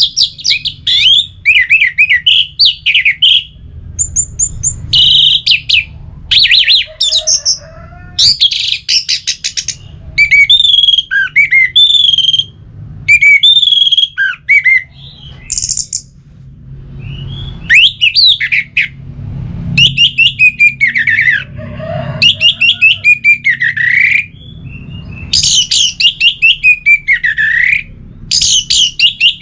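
Orange-headed thrush singing: a long run of loud, varied phrases of quick whistled and warbled notes, each a second or so long with short pauses between, over a faint low hum.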